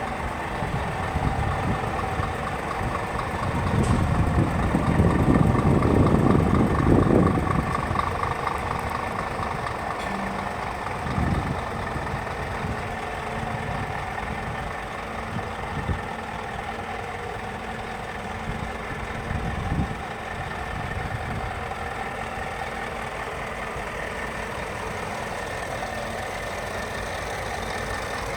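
Scania R440 truck's 13-litre inline-six diesel engine idling steadily. It grows louder and deeper for a few seconds about four seconds in, then settles back to an even idle with a few light knocks.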